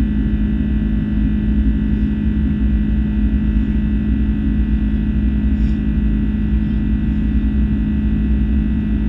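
Steady jet cabin drone of an Airbus A330-300 with Rolls-Royce Trent 700 engines in flight: a low rumble with a strong steady hum and a few fainter high steady tones.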